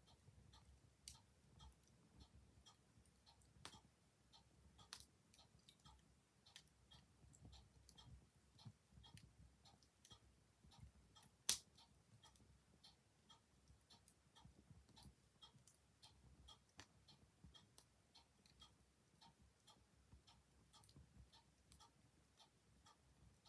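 Quiet wood fire crackling with scattered small clicks and one sharp, loud pop about halfway, over a low rumble, with a clock ticking along.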